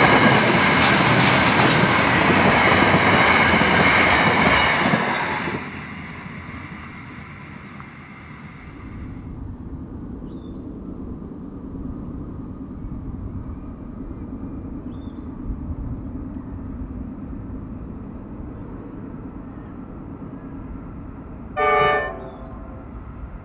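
Diesel freight train passing close by, its wagons rumbling and clattering on the rails, then dropping away after about five seconds to a low, quieter rumble as it moves off. Near the end comes one short, loud horn toot, with faint bird chirps now and then.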